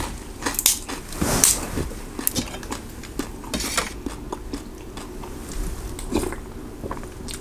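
Close-up chewing and biting of crunchy food, with irregular sharp crunches.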